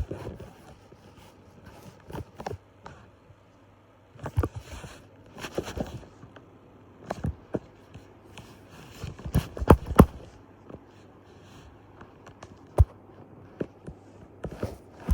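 Irregular handling noise: scattered knocks, bumps and rustling scrapes, with a cluster of sharper knocks around the middle and a single sharp click near the end.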